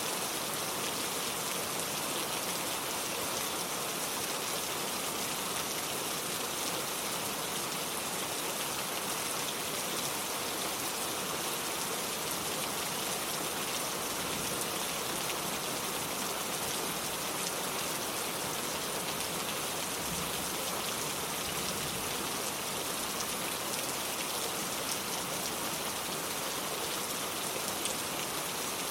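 Steady rain falling, an even patter of drops on hard surfaces.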